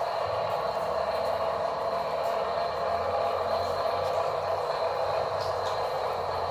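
Small electric motor and plastic gearbox of an RC dump truck running steadily, a continuous gear whine.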